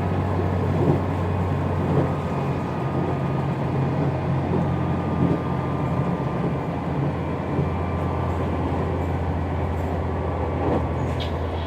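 Steady running noise inside a KiHa 187 series diesel railcar: a low engine hum with the rumble of the wheels on the rails.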